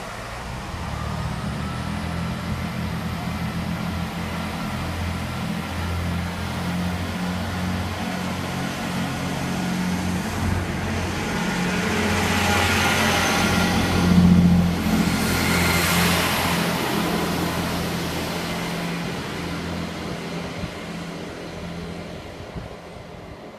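Diesel multiple-unit train passing close along the platform: a steady low underfloor engine drone, with the rush of wheels on the rails swelling to its loudest about halfway through and then fading away.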